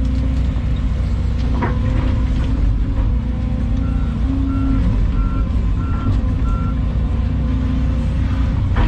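Volvo EC220 excavator's diesel engine running steadily under work. Five short, high backup-alarm beeps sound in the middle, about one and a half a second, with a couple of knocks from the machine.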